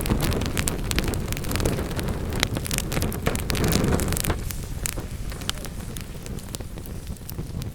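Wood fire burning in a fireplace: a low rushing of the flames with frequent sharp crackles and pops of burning wood; the rushing eases off about halfway through while the crackling goes on.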